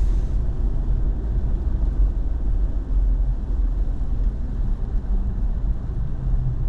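Steady low rumble of a truck driving on a snow-covered road, heard from inside the cab: engine and tyre noise.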